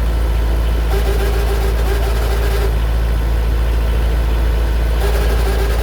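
Narrowboat engine running steadily in its engine compartment, with a mid-pitched funny noise that comes in about a second in, drops out, and returns near the end. The owner puts the noise down to worn fan belt pulley bearings.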